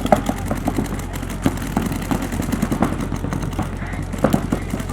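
Paintball markers firing in rapid, irregular volleys of short sharp pops, over a steady low hum.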